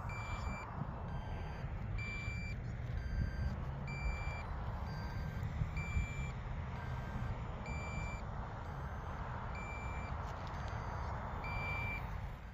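RC transmitter's low-battery alarm beeping steadily, about once a second, alternating a high and a lower tone, over low wind rumble on the microphone.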